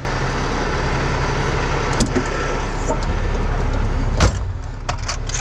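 A heavy truck's diesel engine idles steadily with a low drone, and a few sharp clicks and knocks sound over it.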